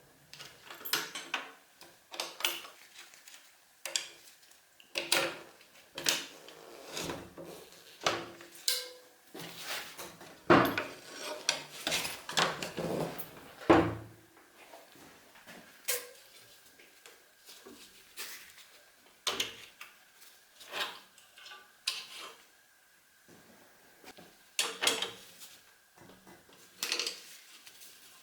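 Hand tools and metal parts clinking and knocking during workshop repair work: irregular sharp clicks and clatters, one every half second to a second and a half, the loudest about ten and fourteen seconds in.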